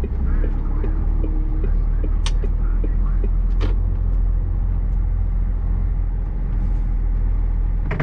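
Heavy goods lorry's diesel engine running, heard from inside the cab as a steady low rumble. Two sharp clicks stand out, a couple of seconds in and again over a second later.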